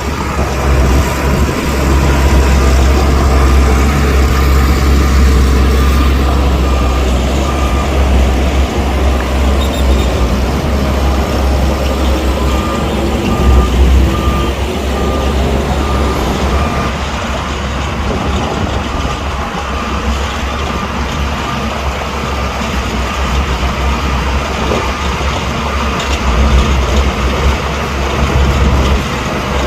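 Heavy diesel earthmoving machinery running under load. From about a third of the way in, a reversing alarm beeps at an even pace for several seconds.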